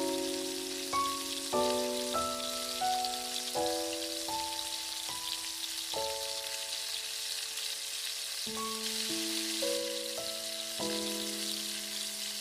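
Vegetables frying in oil in a miniature steel kadai, a steady high sizzle. Under it runs background music, a slow melody of held notes that change about every second.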